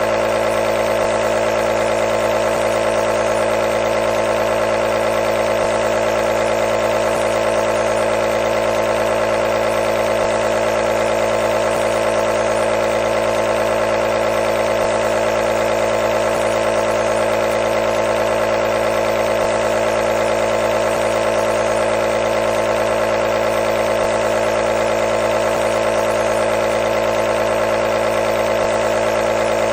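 Nebulizer running continuously: a steady, unchanging mechanical hum made of several pitched tones, strongest in the midrange.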